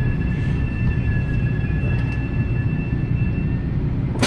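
Metra commuter train standing at the station: a steady low rumble with a thin, steady high whine. Near the end a loud hiss starts suddenly.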